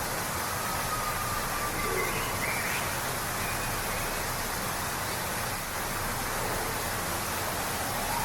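Waterfall rushing steadily, with a few faint bird whistles in the first few seconds.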